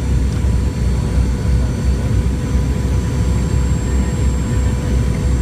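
Cabin noise aboard a Boeing 717: a steady low rumble from its rear-mounted Rolls-Royce BR715 jet engines and the airflow, with faint constant whining tones above it.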